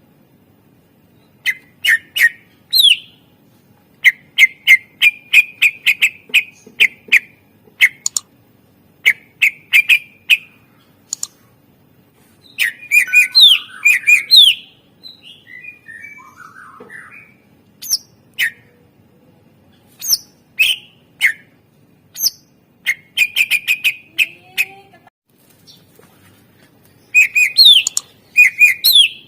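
Greater green leafbird (cucak ijo) singing loudly: sharp, high chirps fired in quick runs, phrase after phrase, with brief pauses between them.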